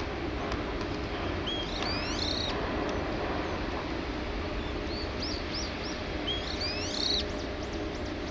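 A bird calling: two bursts of quick, squeaky rising-and-falling whistled notes with a short run of four brief notes between them. Under it runs a steady low background hum.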